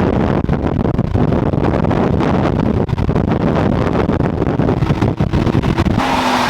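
Car driving on the road, its engine and road noise rumbling under heavy wind buffeting on the microphone. The sound changes abruptly near the end.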